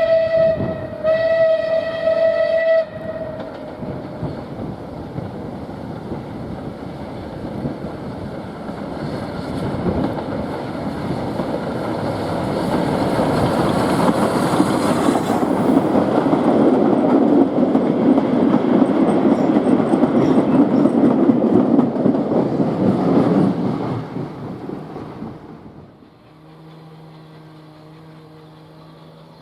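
Steam locomotive whistle sounding, broken briefly about a second in, then a train running past, its noise building to loudest before fading away. Near the end a steady low engine hum takes over.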